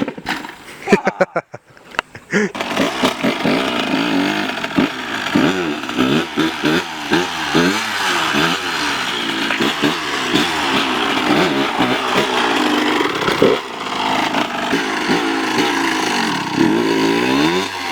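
Dirt bike engine running and being revved up and down over and over, its pitch rising and falling continually; it is broken up for the first couple of seconds before it runs steadily.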